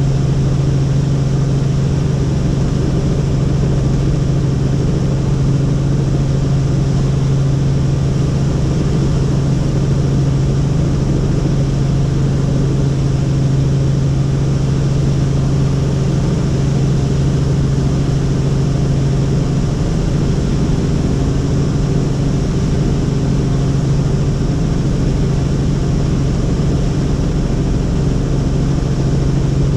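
Helicopter in flight: a steady, unbroken drone of turbine engine and rotors, with a strong low hum and a stack of steady tones above it.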